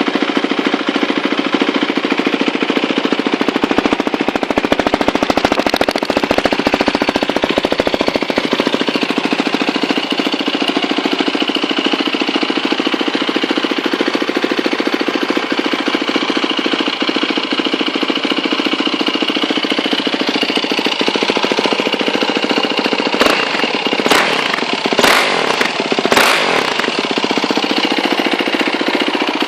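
Yamaha WR450F single-cylinder four-stroke engine idling through a Yoshimura RS-2 exhaust, with a fast, even thumping beat. A few brief louder noisy bursts come about 23 to 27 seconds in.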